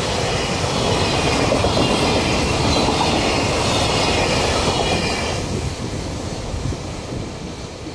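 Container freight train's flat wagons rolling past at speed, a steady rumble and clatter of wheels on rail with a faint high whine over it. The last wagon passes about five seconds in and the noise fades away.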